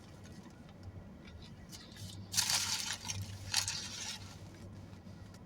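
Biting into and chewing a sub sandwich with lettuce and onion, a crunching, squishing burst about two seconds in and a shorter one about a second later.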